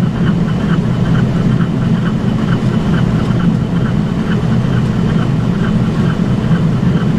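Boeing 767-300ER flight deck on short final in heavy rain: a steady, loud roar of airflow and engines, with the windscreen wipers running on high and an even, rapid ticking over the top.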